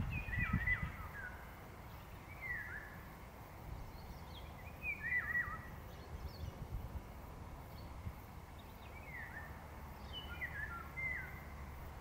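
A songbird singing short phrases of quick whistled notes that slide downward, repeated every few seconds, about five times. A low rumble sounds under the first phrase.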